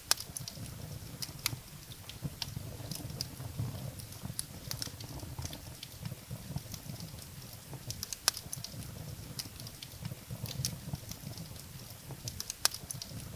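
Firewood burning in a fireplace, crackling with irregular sharp pops and snaps over a low steady rumble from the fire.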